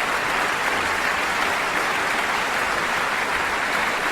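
Steady applause from a group of people clapping.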